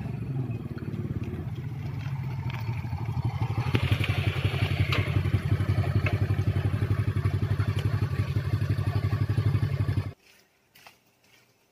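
Honda step-through motorcycle's small engine running with a rapid, even putter, a little louder from about four seconds in. It cuts off abruptly near the end.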